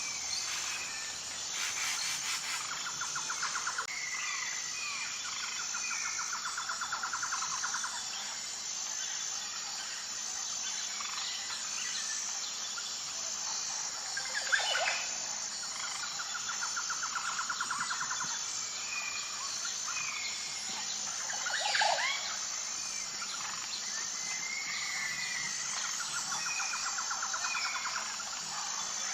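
Birds chirping and calling over a steady high-pitched pulsing insect chorus. A fast trill lasting about two seconds comes back several times, and a few sharp sweeping calls stand out, the loudest about halfway through.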